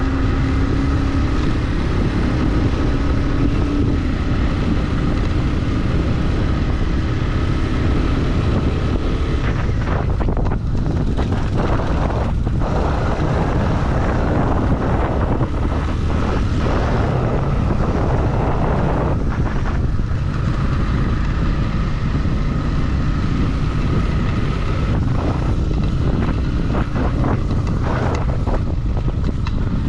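Motorcycle engine running at a steady pace while riding, with wind noise on the microphone; from about a third of the way in the sound turns rougher and noisier.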